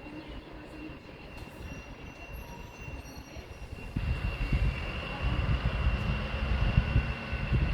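Train moving through a station: a steady high whine, then about halfway a much louder low rumble with clattering of wheels over the rail joints as the train comes close.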